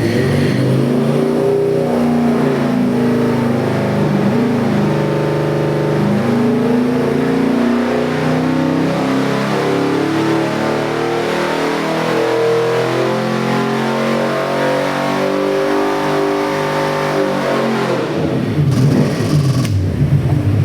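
383 cubic-inch small-block Chevy V8 crate engine running on an engine dyno, its revs rising and falling repeatedly. It gets heavier and louder near the end.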